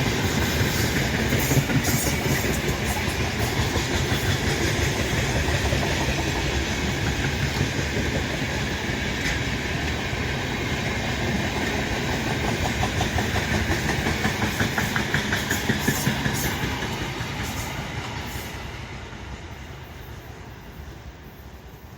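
Freight train rolling past at speed, the wagons' wheels rumbling on the rails with scattered clicks over the rail joints. The sound dies away over the last few seconds as the train draws off.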